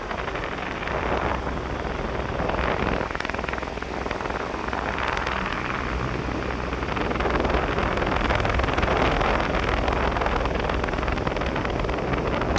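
Electric fan running at high speed: a steady rush of air over a low motor hum, swelling and easing irregularly.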